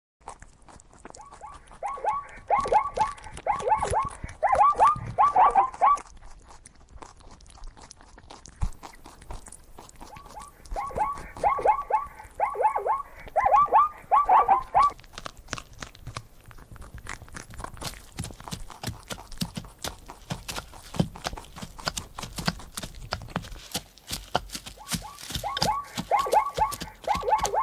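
Zebra barking: three bouts of rapid, repeated high yelps, each note falling in pitch. The bouts come near the start, about halfway through and near the end. Sharp clicks and ticks are scattered between them.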